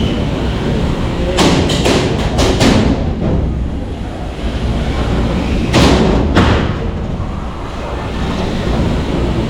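Hobbyweight combat robots colliding in the arena: a quick run of about five sharp hits, then two more a few seconds later, over a steady low rumble.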